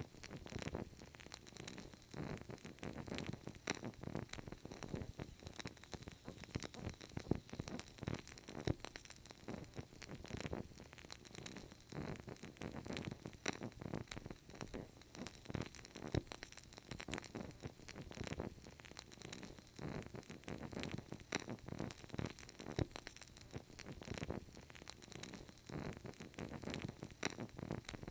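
A burning candle crackling: dense, irregular small clicks and pops over a soft, steady hiss.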